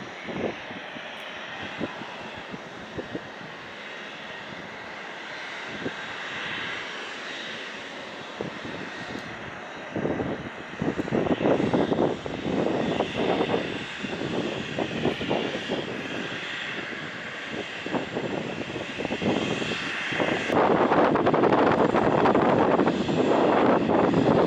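Mi-17 military helicopters with their twin turboshaft engines and main rotors running, taking off. The sound grows louder about ten seconds in and again near the end, with a rapid beat from the rotor blades in the louder parts.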